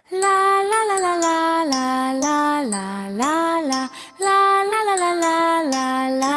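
A singing voice with music, holding notes in a short melody that steps down and back up, with no words the recogniser could pick out. The phrase is sung twice, with a brief break near the middle.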